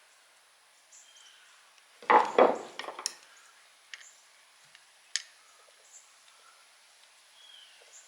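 A quick cluster of five or six sharp metallic knocks and clanks, about two seconds in, from the old mill motor's steel stator being struck and worked loose. A single sharp click follows a few seconds later.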